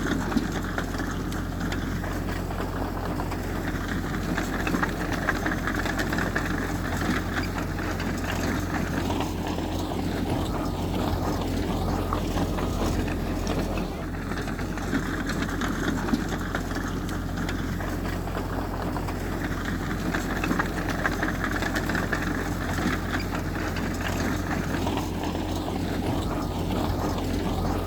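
Diesel engine of heavy earthmoving machinery running steadily with a deep, constant drone.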